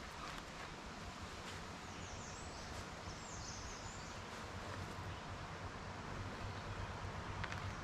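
Quiet outdoor ambience with a steady low rush and a few short, high bird chirps about two and three seconds in, plus faint scattered clicks.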